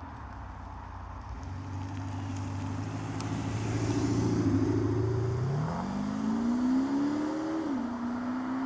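Audi A7 3.0 BiTDI V6 diesel, its note shaped by an active sound booster, humming steadily at low revs and then accelerating. The pitch rises, dips suddenly at an upshift about three-quarters of the way through, then climbs again.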